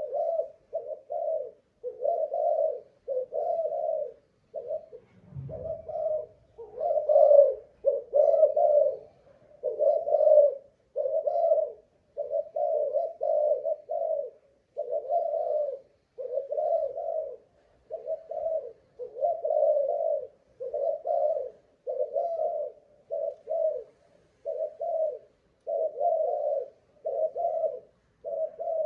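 Spotted dove (Malaysian-bred cu gáy singing dove) cooing on and on, one low coo phrase after another with only short gaps between them: a long, steady singing bout. There is a brief low thump about five seconds in.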